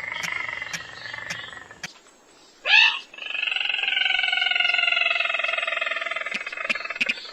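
Crake lure calls: a long buzzy call with sharp ticks about twice a second, a short loud rising note about three seconds in, then another long call that slowly falls in pitch.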